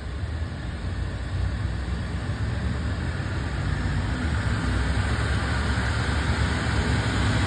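Aircraft engine noise, a steady rumble with a rushing hiss, slowly growing louder.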